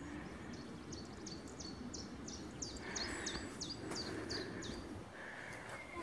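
A songbird singing a long run of short, high notes, each sliding quickly downward, about three a second, over a low outdoor rustle.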